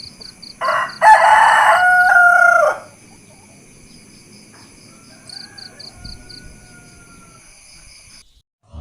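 Rooster crowing once, a loud cock-a-doodle-doo lasting about two seconds and starting just before a second in, followed by a much quieter stretch with faint steady high-pitched tones.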